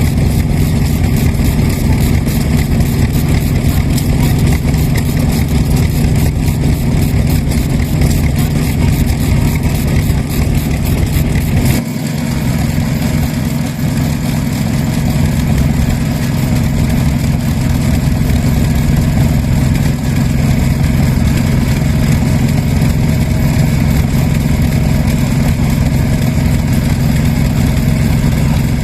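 Vintage Japanese stationary engine (a kerosene-fuelled hatsudoki) running steadily with a regular firing beat. The sound changes about twelve seconds in, and a different engine sound takes over.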